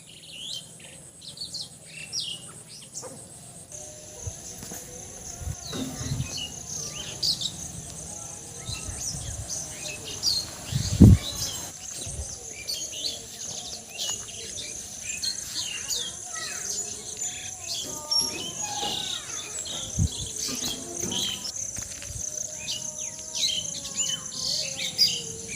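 Many birds chirping and calling over a steady high-pitched insect drone that sets in about four seconds in, with a single loud low thump about midway.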